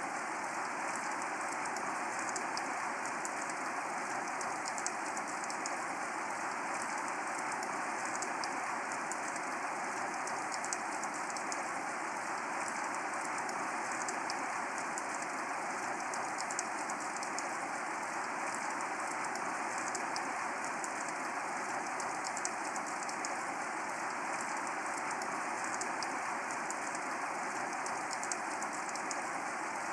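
Steady rain falling: an even hiss of rain with many single drops ticking through it, unchanging in level.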